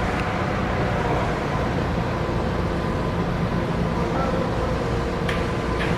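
Steady mechanical drone of machinery running at a fishing-boat unloading, with a low hum and a couple of short sharp knocks near the end.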